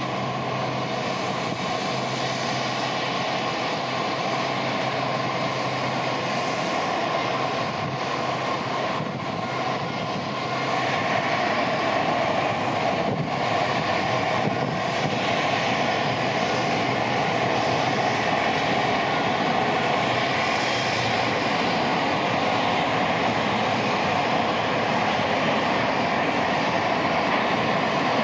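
Jet engine noise from a Boeing 787-8 Dreamliner with General Electric GEnx engines, a steady rushing sound with a held hum in it, growing louder about ten seconds in.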